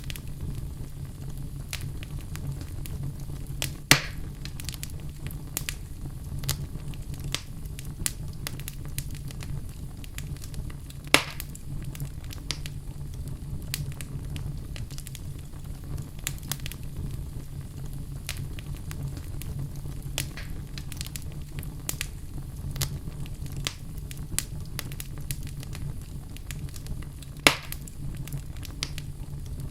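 Wood fire burning in a fireplace: a steady low rumble of flames with scattered crackles throughout and three louder pops.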